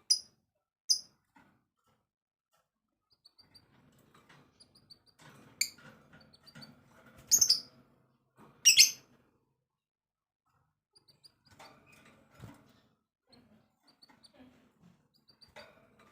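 Songbird calls: loud, sharp chirps about a third of the way in and twice more just past the middle, with strings of soft, high ticking notes between them. After a short pause, quieter chirps follow.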